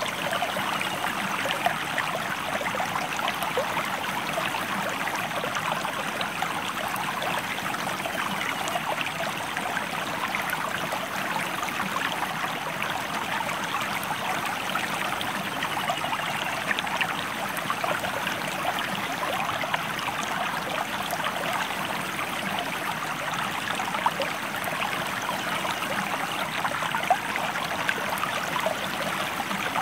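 A river or stream flowing steadily: a continuous rush of water with many small splashes.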